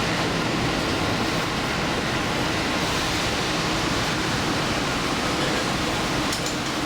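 Express train running at speed, heard from inside: a steady, even rush of wheel, track and running noise.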